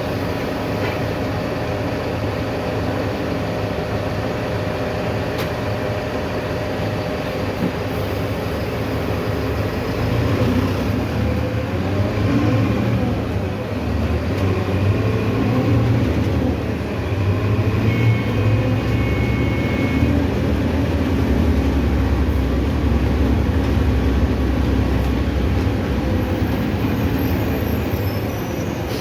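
Mercedes-Benz OF-1519 city bus under way: its diesel engine runs steadily under road and body noise, growing louder from about ten seconds in as it pulls harder. A brief high whine comes about eighteen seconds in.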